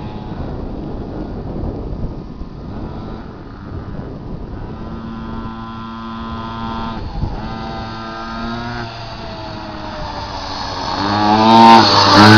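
Minibike's small engine running as it is ridden, its pitch rising and falling with the throttle. It grows much louder near the end as the bike comes close.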